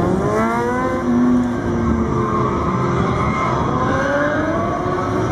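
Motorcycle engine revving hard under stunt riding: the pitch climbs steeply in the first second, holds, then rises again about four seconds in.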